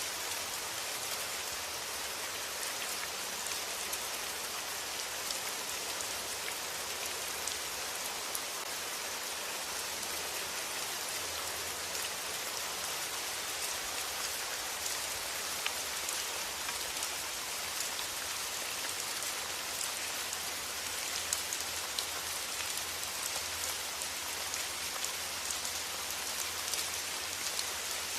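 Steady rain, an even hiss with many sharp drop ticks scattered through it.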